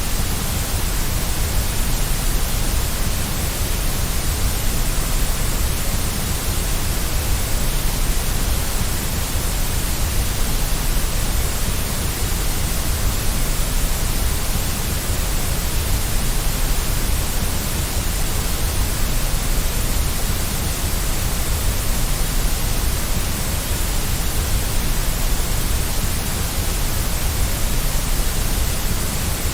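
Steady white noise: an even, unbroken hiss across all pitches, fullest in the bass, with no change throughout.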